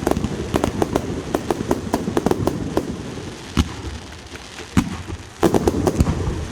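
Fireworks going off: a fast run of sharp pops and bangs that thins out in the middle to a couple of single louder bangs, then a loud, dense volley starting about five seconds in.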